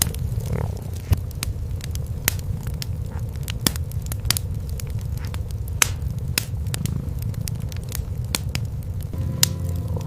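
Cats purring in a steady low rumble, over a wood fire crackling with irregular sharp pops. Near the end a few steady sustained tones come in.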